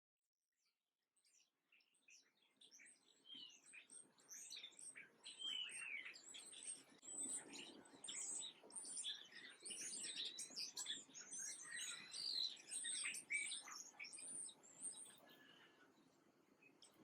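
Small birds chirping, many short overlapping calls and twitters. It starts almost silent, builds up about two seconds in, and thins out near the end.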